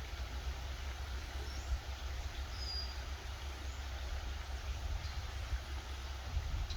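Outdoor ambience: a steady low rumble under a faint hiss, with a few short, faint bird chirps in the first four seconds.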